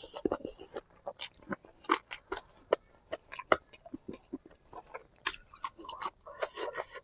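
Close-up eating sounds of spicy braised pig feet being chewed, with many short, wet mouth clicks and smacks coming several times a second in an uneven rhythm.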